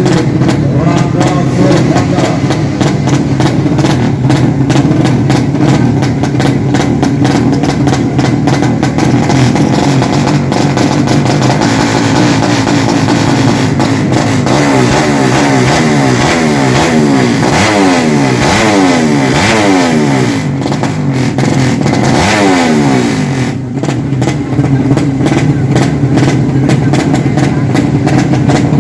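Drag-racing motorcycle engines of the 200cc open class running loudly and being revved. Through the middle, several engine notes rise and fall in pitch at once, crossing one another.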